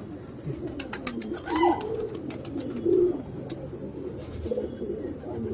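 Domestic pigeons cooing over and over in low, rounded calls, with a few sharp clicks about a second in.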